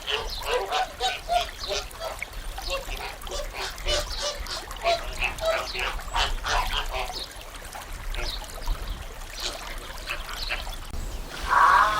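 A flock of waterfowl calling, many short calls overlapping one another. About a second before the end the calls give way abruptly to a different, steady pitched sound.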